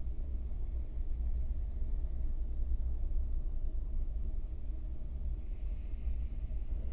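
Low, steady rumble of a moving passenger train, heard from inside an open-sleeper carriage.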